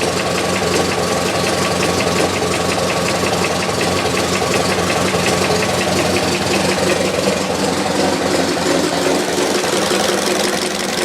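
1919 Ford Model T's four-cylinder flathead engine running steadily with a fast, regular knock in its beat, which the owner takes for an engine knock less than 1000 miles after a rebuild.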